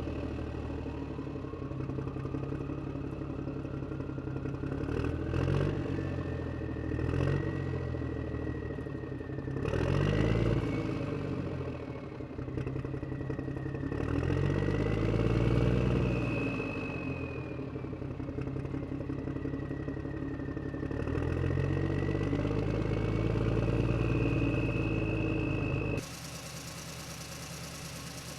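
An engine running and revving, its pitch rising and falling several times, with a high whine over it; near the end it cuts suddenly to a quieter, steady run.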